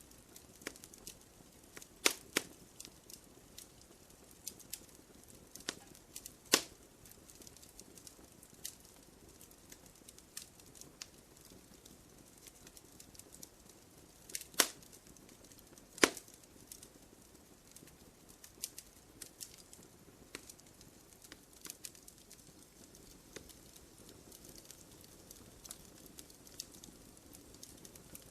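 Wood fire crackling in a fireplace: scattered small snaps over a faint hiss, with a few much louder pops, two close together about two seconds in, one near six and a half seconds, and two more around fourteen and sixteen seconds.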